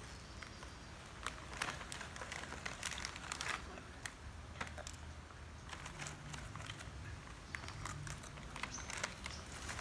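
Faint, irregular crinkling and crackling of a plastic snack packet being handled, with scattered small clicks.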